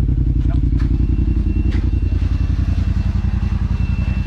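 Side-by-side UTV engine running steadily at low revs as the machine crawls along the trail, with a few sharp knocks early on and a faint high whine from about a second in.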